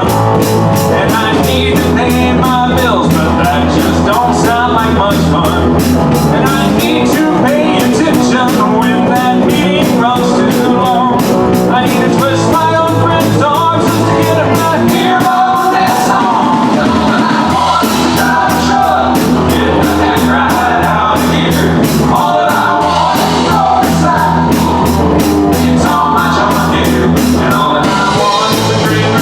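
Live country-rock band playing a song, with a steady drum beat, bass and electric guitar.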